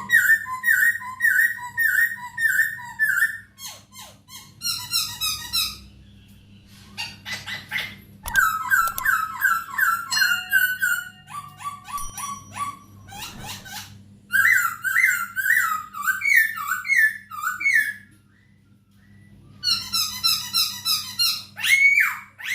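Poksay Hongkong, a laughingthrush, calling loudly in rapid runs of short repeated whistled notes, phrase after phrase, with brief pauses about six and eighteen seconds in. A faint steady hum sits underneath.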